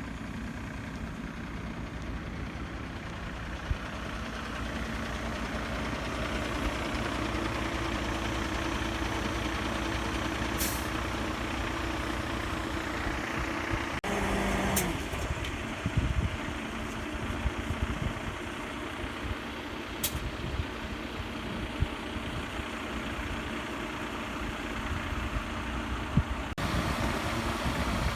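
An engine running steadily, with a few sharp clicks and abrupt changes in its sound partway through and near the end.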